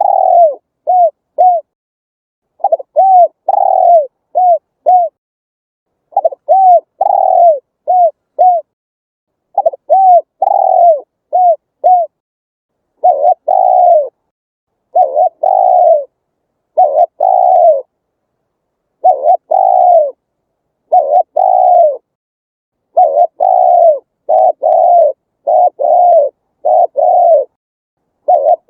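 Spotted dove cooing, with dead silence between phrases. At first the song comes in short phrases of four or five arched coos about every three and a half seconds. From about halfway the coos are longer and fuller and follow more closely on one another.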